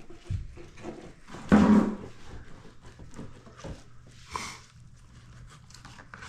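Fillet knife scraping and tapping against a cutting board while skinning a sheepshead fillet, with a louder knock about a second and a half in and a shorter one past four seconds.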